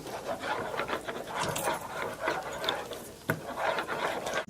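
Otters scrabbling and rummaging: irregular scratching and rubbing with scattered light taps and clicks, one sharper knock about three seconds in.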